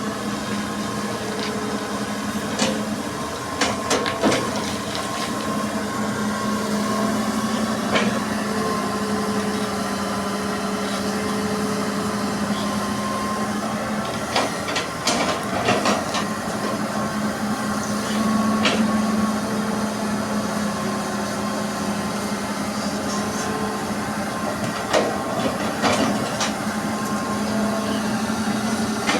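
Crawler excavator's diesel engine running steadily, with scattered sharp clanks and knocks from the machine as it works, several coming in quick clusters.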